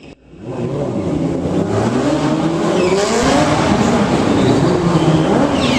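Motorcycle engine revving up and down, its pitch rising and falling over and over. It fades in over the first half second.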